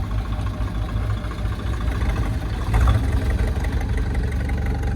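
Tractor diesel engine running steadily, with a brief louder surge about three seconds in.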